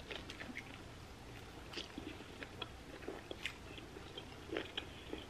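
A person biting into an ahi tuna sushi burger and chewing it. The chewing is faint, with scattered small clicks and crunches.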